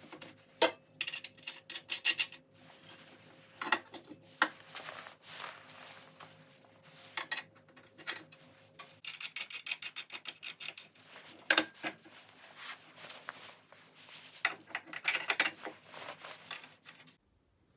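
Hand tools and bolts clinking, scraping and knocking against steel suspension parts as a rear subframe is assembled, with runs of rapid clicking. The sounds cut off abruptly near the end.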